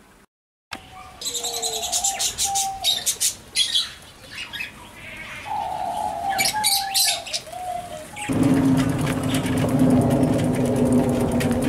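Birds calling in short chirps, with sharp flutter-like clicks. About eight seconds in, a louder steady sound with a low hum takes over.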